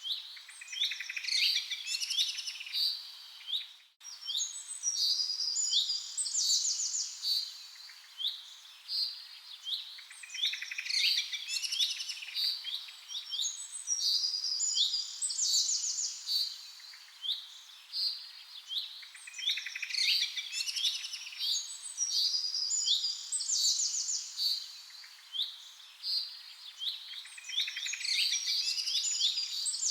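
Songbirds chirping and singing: a busy mix of short high notes and quick trills that repeat in similar phrases every few seconds, with a brief dropout about four seconds in.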